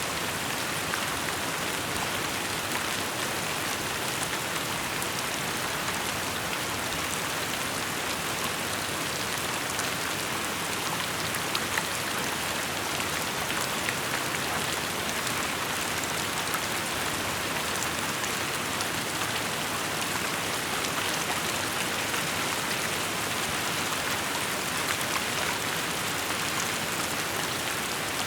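Steady rainfall: a dense, even hiss of rain with many small drop ticks scattered through it.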